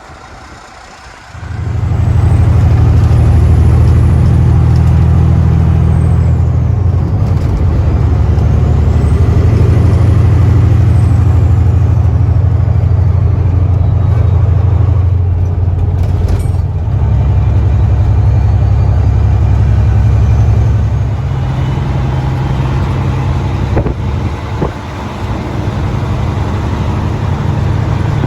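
Semi truck's diesel engine running hard under load, a loud low drone starting about a second and a half in, its note and level changing several times as the truck drives.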